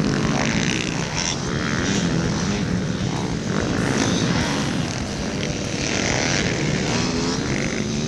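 Small pit bike engines running hard, their pitch rising and falling as the riders work the throttle.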